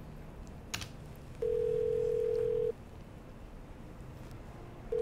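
Telephone ringback tone on an outgoing call: a single steady tone lasting just over a second, with a second ring starting near the end as the call waits to be answered. A sharp click comes shortly before the first ring.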